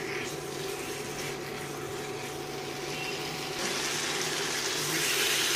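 Chicken pieces in spinach masala sizzling in a hot pan on high heat while being stirred with a wooden spatula, the sizzle growing louder about three and a half seconds in. A steady low hum runs underneath.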